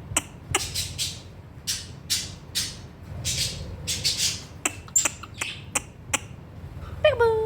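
Cockatiel clicking and chattering in short raspy, hissing bursts mixed with sharp clicks. Near the end comes a short call that falls in pitch and levels off.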